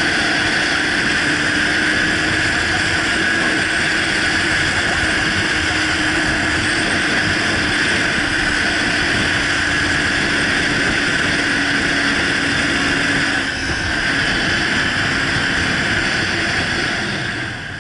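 Motorcycle riding along: steady loud wind rush over the rider's microphone with a low engine drone underneath, easing off a little near the end.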